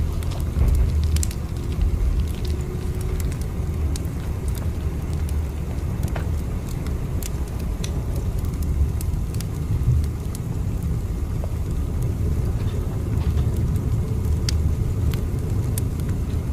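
Steady low rumble of a moving train, with scattered light clicks and rattles over it.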